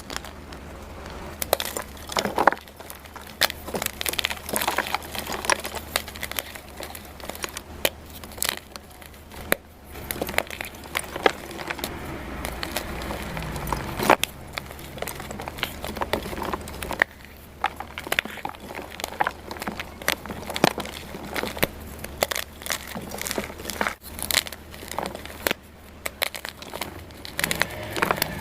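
Blocks of dyed gym chalk crunching and crumbling as they are crushed, a dense run of irregular sharp crackles.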